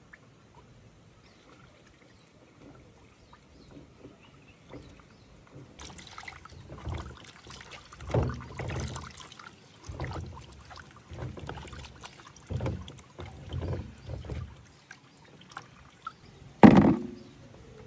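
Water sloshing and splashing in a container in a series of irregular swishes, then a single sharp knock near the end.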